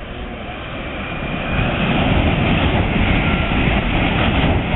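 Shinkansen bullet train passing close by at speed. Its rushing roar builds over the first two seconds and then holds loud.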